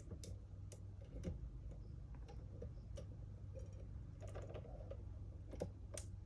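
Faint, irregular light clicks and ticks of small 3D-printed plastic parts and a thin stainless steel wire being handled as a hinge pin is worked into a model door, over a low steady hum.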